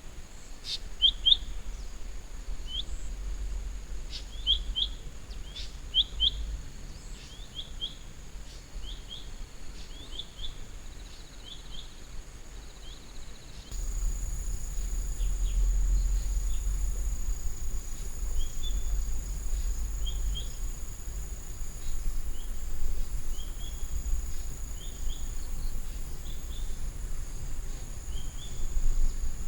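Birds chirping in short, quick repeated notes over a steady high insect drone and a low rumble. About halfway through, the insect drone gets louder and the chirping thins out.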